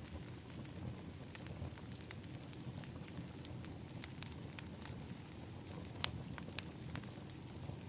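Wood fire in an outdoor fire pit crackling, with irregular sharp pops over a low steady rush; the loudest pop comes about six seconds in.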